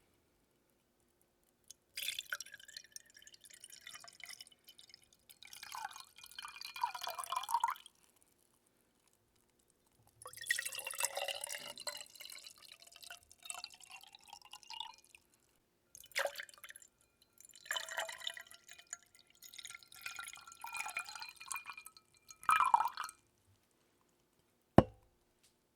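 Water dripping and trickling close to the microphone in bursts of a few seconds, with silent gaps between them and a faint ringing tone running through the bursts. A single sharp tap comes near the end.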